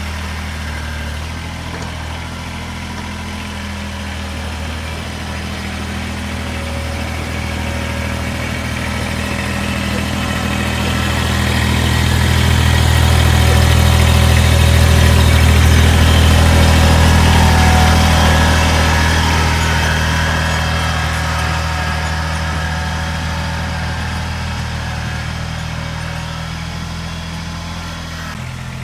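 Kubota BX2380 sub-compact tractor's three-cylinder diesel engine running steadily, growing louder toward the middle and fading again.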